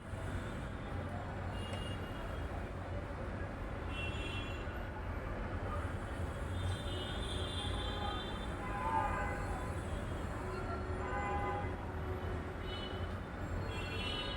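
Steady low rumble and noise of a moving vehicle, with brief high-pitched tones at intervals and faint voices around the middle.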